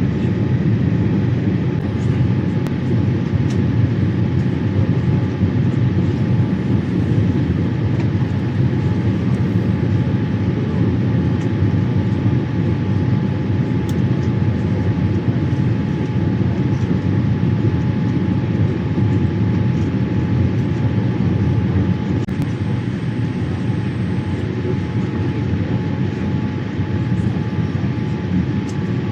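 Steady in-flight cabin noise inside a Boeing 787-8 airliner: a constant low rush of airflow and engines, with a faint steady hum held above it.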